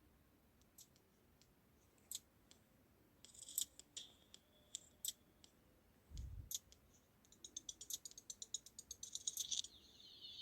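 Small plastic parts of wireless headphones being handled and snapped together: scattered sharp clicks, a soft thump about six seconds in, then a quick run of rapid clicks near the end.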